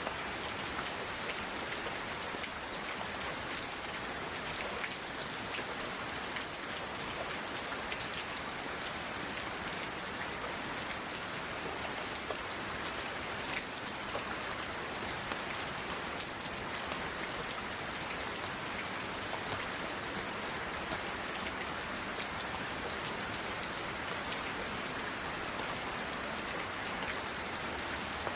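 A recording of steady rain falling: an even hiss with scattered ticks of individual drops.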